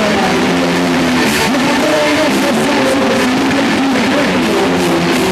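Loud rock band music with guitar and drums playing throughout.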